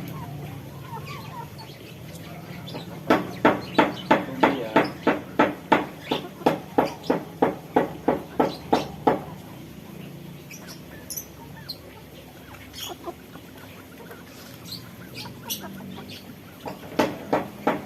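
Aviary birds calling: a fast, even run of about twenty short calls at three to four a second, from about three seconds in until about nine seconds. A second run starts near the end, with faint scattered chirps in between.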